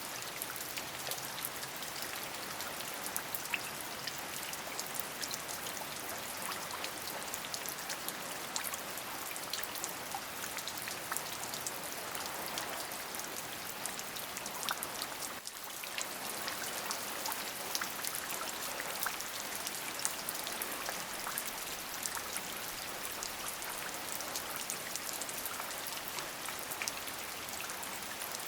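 Steady rain: an even hiss of falling rain dotted with many small, separate drop impacts. The level dips briefly about halfway through.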